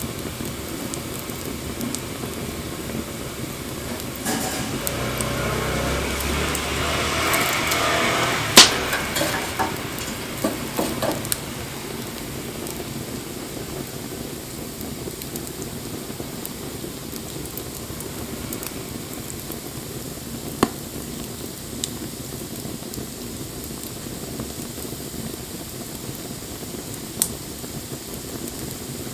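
Wood fire burning with a steady hiss and scattered crackles. It grows louder for a few seconds, ending in one sharp, loud pop about eight and a half seconds in, followed by a few smaller pops spread through the rest.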